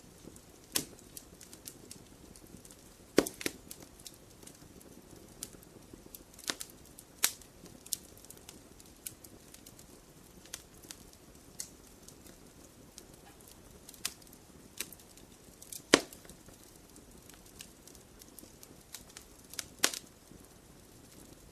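Wood fire crackling in a fireplace: irregular sharp pops and snaps over a soft hiss, with the loudest pops about three seconds in, at about sixteen seconds and near twenty seconds.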